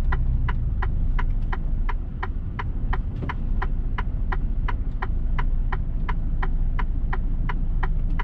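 A lorry's turn indicator ticking evenly, about three ticks a second, inside the cab over the low, steady rumble of the idling diesel engine.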